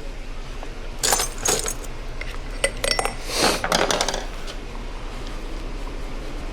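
Metal parts clinking and clattering as the axle joint's three roller bearings are handled and set aside on a hard surface: a few sharp clinks in the first half and a short rattle about three and a half seconds in, over a steady low shop hum.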